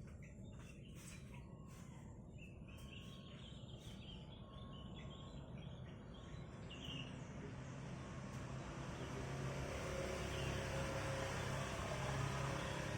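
Sooty-headed bulbul giving short chirps through the first half, faint. From about eight seconds in, a passing vehicle's steady rumble grows louder and drowns them out.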